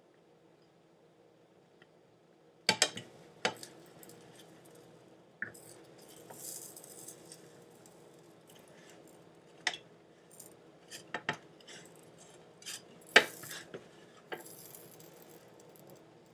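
Kitchen utensils clinking and knocking against dishes and a pan, with a brief hiss about six seconds in, over a faint steady hum.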